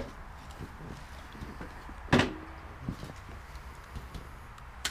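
A single sharp knock about two seconds in, with a brief ring after it, among a few fainter clicks and handling noises.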